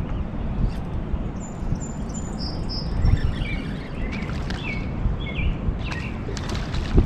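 Small birds chirping in short repeated calls over a steady low rumble.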